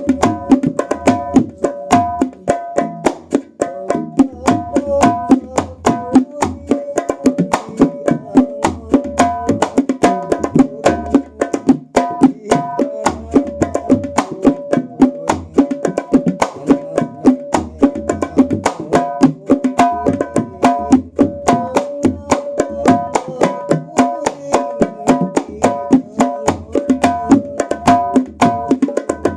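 Terbang frame drums played in a fast, steady rhythm as a new tirintit drum is tried out: a dense stream of sharp, ringing high strokes over repeated groups of deep thumps.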